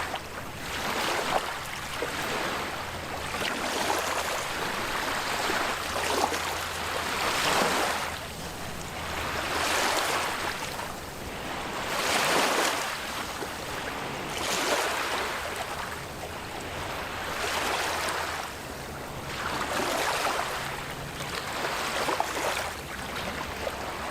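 Waves breaking and washing up on a beach, each surge swelling and fading every two to three seconds.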